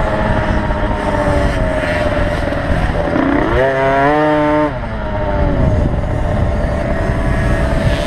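Small 50cc two-stroke motocross bikes racing: a steady engine note throughout, with one bike revving up in a rising whine about three seconds in and cutting off sharply just before five seconds.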